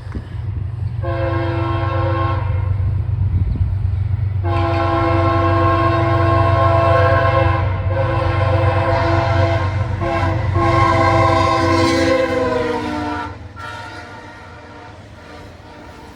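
CSX freight locomotive's air horn sounding a short blast, then a long multi-note blast over the steady rumble of the diesel engines. Near the end of the long blast its pitch slides down as the locomotive passes, and the horn and the engine rumble cut off about thirteen seconds in, leaving a quieter running train.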